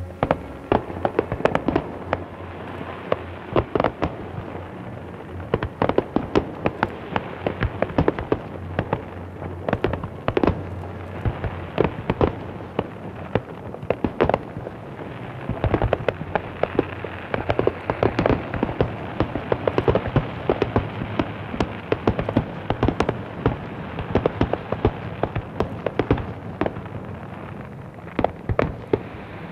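Fireworks display going off in rapid volleys: sharp bangs and crackling, several a second, some much louder than the rest.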